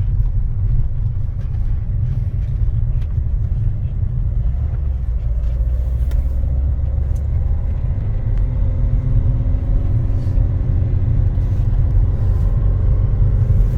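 Car driving, heard from inside: a steady low rumble of engine and road noise, with the engine's note rising slowly through the second half as the car gathers speed.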